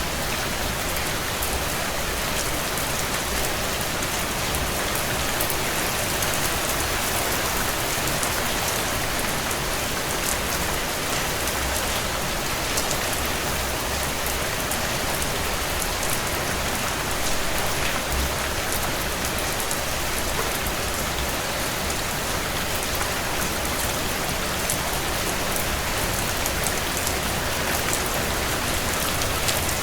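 Heavy rain on a tin roof: a steady, even rush of rain with many small, sharp drop strikes throughout.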